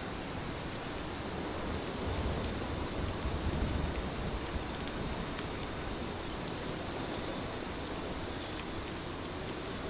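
Heavy rain falling steadily, a dense even hiss of drops. A low rumble swells from about two seconds in and fades by the middle.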